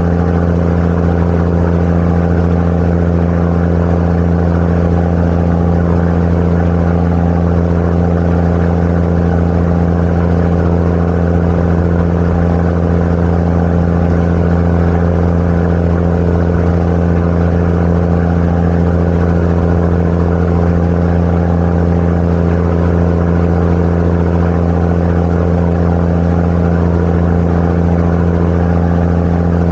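Sightseeing boat's engine running at a steady cruise, a constant low drone with no change in speed.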